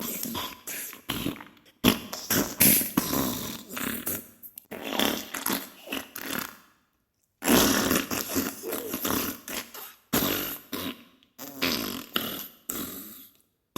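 Diarrhea sound effect: wet, sputtering farts in a run of crackling bursts of a second or two each, with a brief pause just before the middle.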